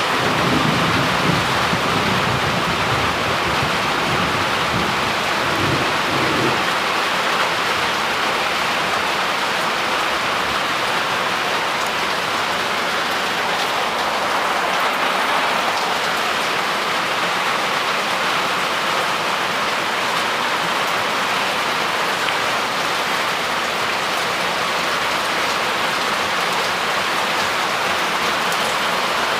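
Heavy rain falling steadily, a dense even hiss throughout. A low rumble of thunder runs under it for the first six or seven seconds and then dies away.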